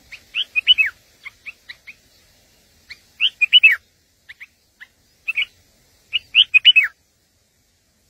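Songbird chirping: a quick phrase of several whistled notes, some sliding down, given three times, with single short chirps between.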